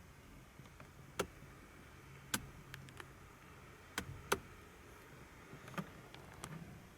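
Sharp, isolated clicks and ticks from handling the interior fittings of an old Mercedes-Benz 500SEL: about five distinct clicks, two of them close together about four seconds in, with fainter ticks between, over a faint steady low hum.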